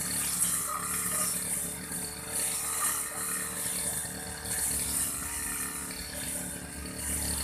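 Old Aldo brush cutter engine running steadily while cutting grass. A steady engine hum sits under a high hissing whir that swells and fades every second or so as the cutting head sweeps.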